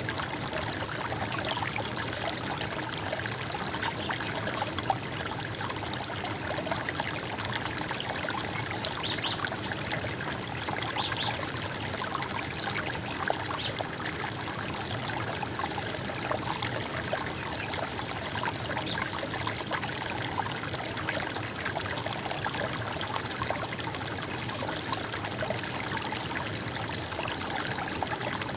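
Running water, a stream trickling and splashing steadily and without a break.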